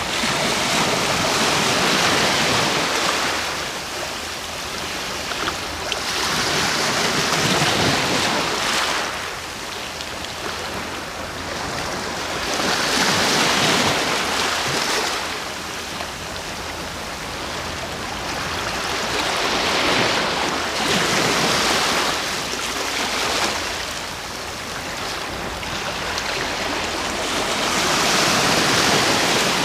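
Sea waves breaking and washing on the shore, the surf swelling and easing about every six seconds.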